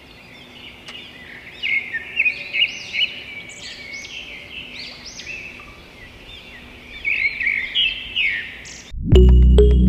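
Birds chirping in many short, quick calls, louder in clusters about two seconds in and again near the end. Then loud music starts abruptly just before the end.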